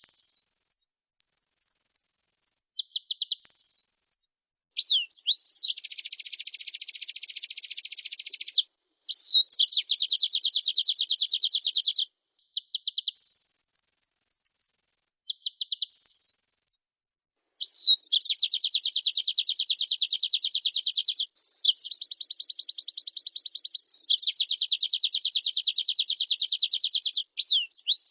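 Pleci (white-eye) song: long, very rapid, high trills lasting several seconds each. These alternate with bursts of even higher, shrill buzzing, near the start and again around the middle.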